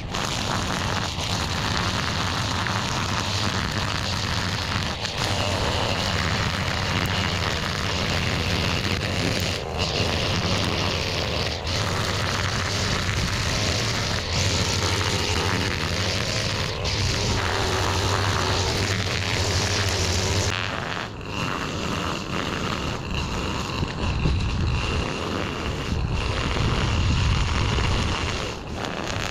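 Small gas engine of outdoor yard equipment running steadily under load, its sound changing about 20 seconds in.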